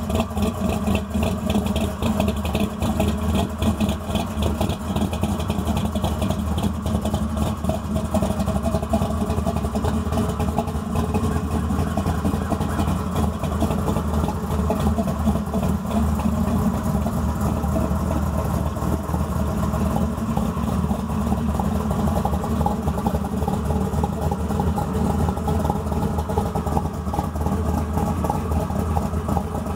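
Summit Racing 509-cubic-inch big-block Chevrolet V8 in a 1941 Willys coupe hot rod, idling steadily while it warms up after a start.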